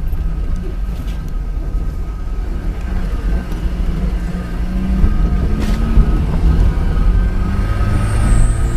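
Fiat Panda 4x4's engine running at low revs, heard from inside the cabin as a steady low rumble whose pitch drifts slightly up and down, with a few short knocks along the way.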